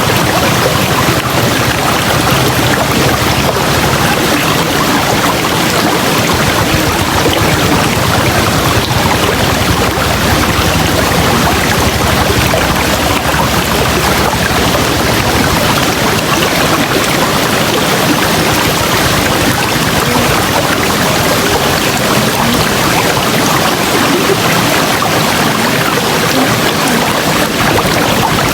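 River water flowing, a loud, steady rush of water that runs without a break.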